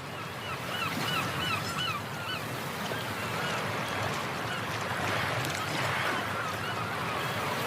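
Water birds calling: a quick series of short, honking notes, about four a second, then a few scattered calls, over a steady rush of water or wind.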